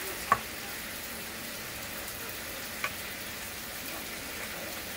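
Steady sizzle of chicken wings frying in hot oil, with two sharp clicks, one just after the start and a softer one near the middle.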